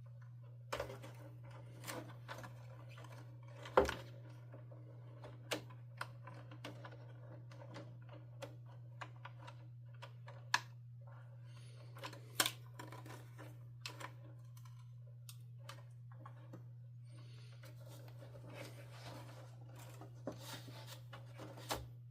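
Irregular clicks, taps and light rattles of hands working on the plastic housing and wiring of a canister vacuum's circuit-board assembly, the loudest knock about four seconds in, over a steady low hum.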